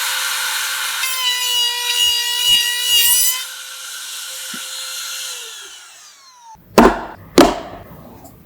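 Router mounted in a router table running at high speed and cutting wood for a couple of seconds. It is then switched off and the motor's whine falls as it spins down. Two sharp knocks follow, a little over half a second apart.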